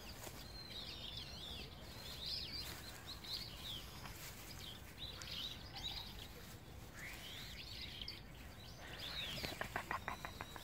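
Small birds chirping in short twittering clusters over a faint steady outdoor hiss, with a quick run of clicks near the end.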